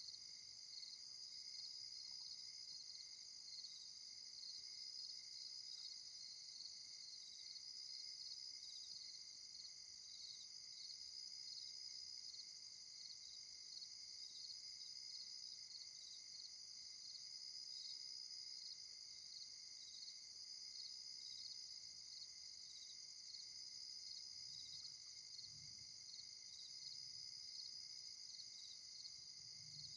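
Steady night chorus of crickets and other insects: a continuous high, even trill with a fainter pulsing band beneath it. A faint low rumble comes in briefly near the end.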